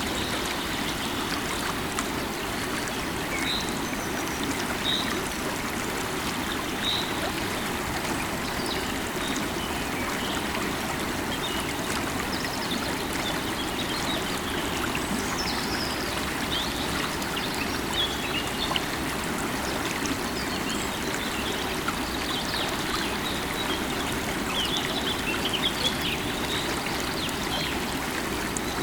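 Running river water, steady rushing and babbling, with short high bird chirps here and there above it.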